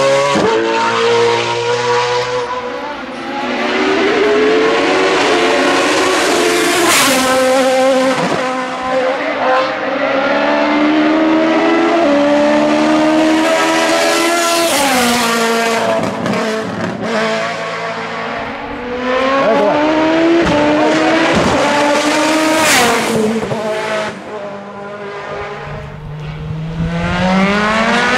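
Hillclimb race car engines at full throttle, revving hard up through quick gear shifts, the pitch climbing and dropping again and again as the cars accelerate, lift and pass, with brief quieter moments between runs.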